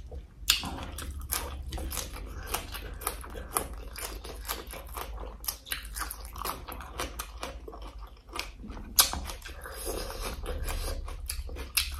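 Close-miked eating: wet chewing and crunching of shredded papaya with squid, shrimp and crab and raw vegetable stems, full of quick crisp clicks, with a sharper crunch about half a second in and another about nine seconds in.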